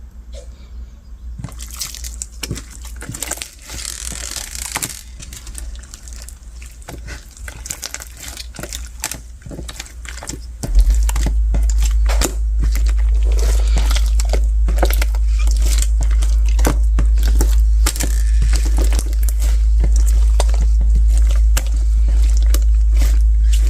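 Translucent bead slime being squished and worked by hand, the beads crackling and clicking in quick irregular pops. A steady low hum comes in about halfway through.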